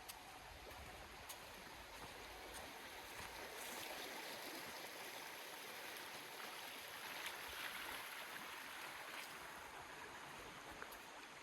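Stream water rushing, a steady faint hiss that swells a little midway, with a few light ticks.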